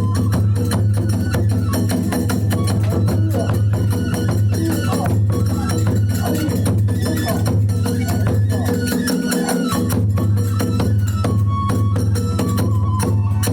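Kagura hayashi music: fast, continuous beats on taiko drum and small tebyoshi hand cymbals, with a bamboo flute melody stepping between held notes near the end.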